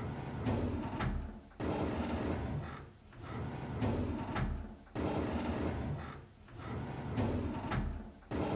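A drawer being slid open, over and over about every three seconds. Each time it starts suddenly with a sliding, rumbling scrape that lasts a couple of seconds, a sharp knock comes partway through, and then it fades.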